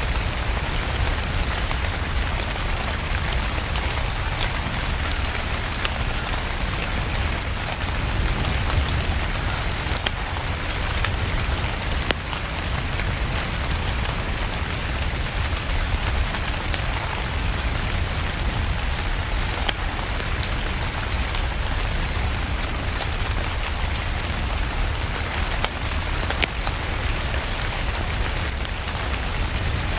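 Steady rain falling, with scattered sharp clicks through it and a low rumble underneath.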